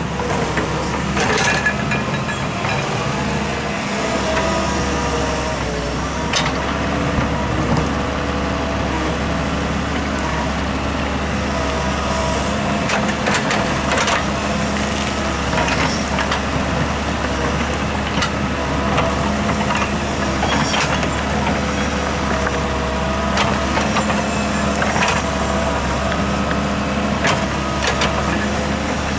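Diesel engine of heavy earthmoving machinery running steadily, with scattered sharp clanks and knocks through it.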